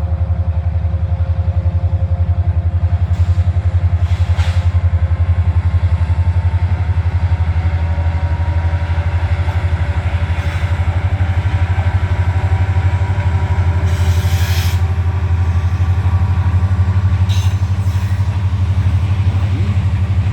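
Freight train passing close by: a loud, steady low rumble with a fast throb and a few brief sharp noises.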